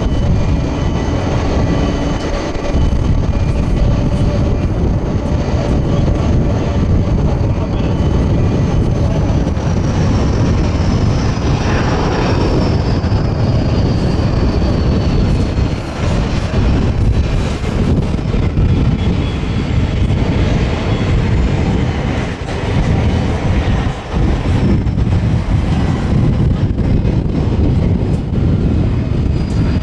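Boeing 747-400 freighter's four jet engines running with a loud, steady rumble, and a high whine that slowly falls in pitch partway through.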